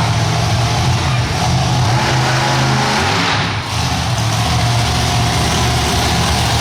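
Monster truck engine running loud, its pitch shifting up and down, with a brief drop in loudness about halfway through.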